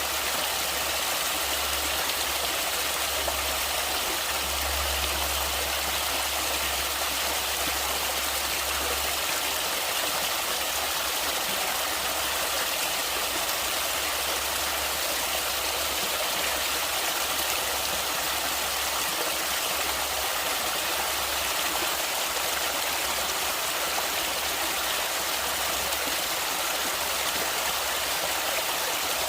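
River or stream water rushing and splashing steadily over rocks, an even hiss with a low rumble underneath that is strongest in the first third and then comes and goes.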